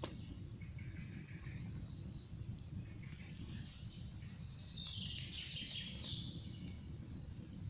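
Campfire crackling with scattered faint pops over a steady low rumble of the flames, while a songbird sings a fast trill that falls in pitch about five seconds in, with fainter calls around it.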